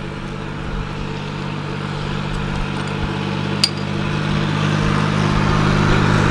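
Car running, heard from inside: a steady low engine hum with road noise that slowly grows louder, and one sharp click about three and a half seconds in.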